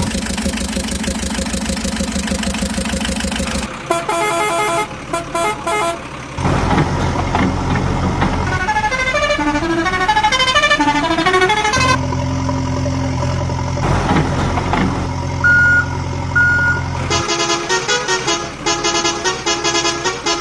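Toy-truck sound effects: an engine running steadily, broken up by musical horn tunes of quick notes, one with rising and falling runs, and two short beeps over the engine hum near the middle.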